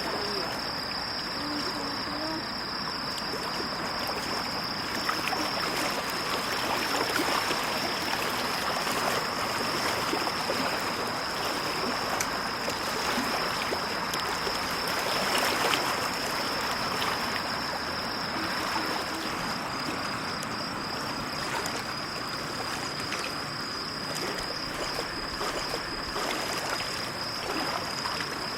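Small lake waves lapping at the shore: a steady wash of water with many small splashes, swelling a little now and then. A steady high-pitched tone runs above it throughout.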